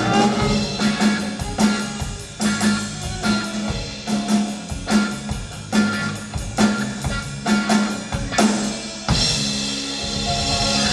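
Live band playing a song with a steady drum-kit beat over a held low bass note. About nine seconds in the drum strikes stop and a sustained ringing chord takes over.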